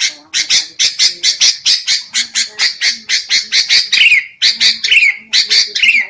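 Sooty-headed bulbuls (kutilang) giving harsh, chattering calls in quick succession, with a few falling notes in the second half. This is the agitated 'ribut' chatter played as a lure call to draw wild bulbuls.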